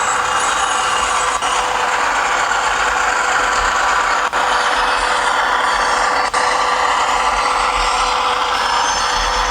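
ESU LokSound 5 sound decoder in an HO-scale Kato GE Dash 9-44CW model playing a diesel locomotive engine sound through its speaker, running steadily. The sound drops out for an instant three times.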